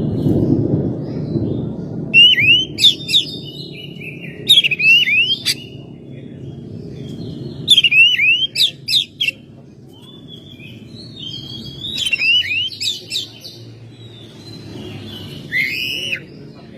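Oriental magpie-robin (Copsychus saularis) singing in short bursts of quick, sweeping whistled notes. About five phrases come a few seconds apart, over a steady low background rumble.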